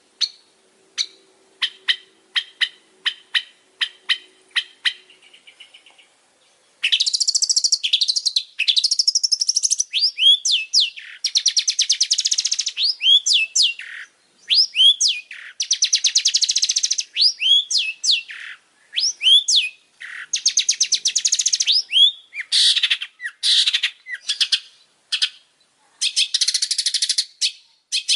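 Long-tailed shrike singing: first a series of short, sharp calls about twice a second, then, from about seven seconds in, a loud, unbroken run of fast buzzy trills mixed with quick slurred whistled notes.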